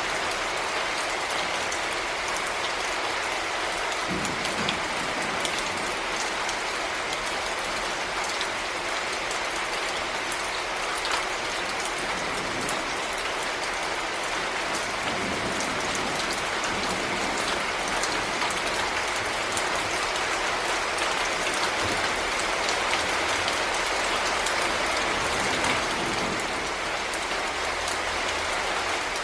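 Heavy rain falling steadily, a dense hiss of drops with many small splashes and patters throughout.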